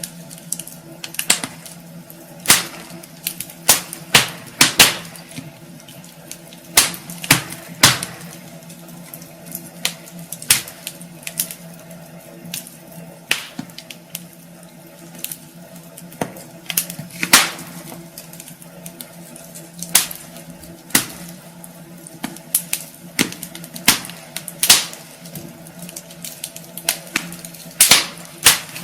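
Wood fire crackling in a fireplace: irregular sharp pops and snaps, one to a few a second, over a steady low hum.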